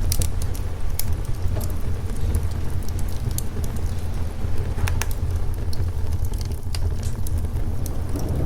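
Fireplace crackling with scattered sharp pops over a steady bed of rain and a continuous low rumble.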